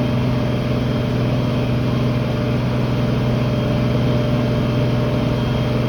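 Tractor engine running steadily under load while pulling a tillage implement, a constant droning hum.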